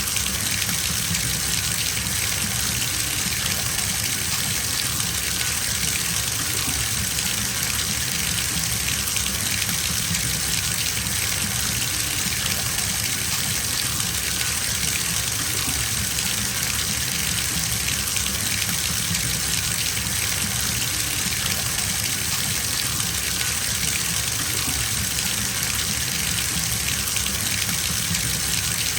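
Bathtub faucet running full into the tub, a steady even gush of water pouring into filling water.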